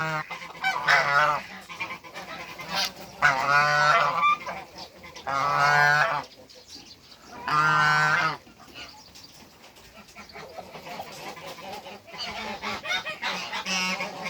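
African geese honking: four loud, drawn-out honks in the first eight seconds, then softer calls near the end.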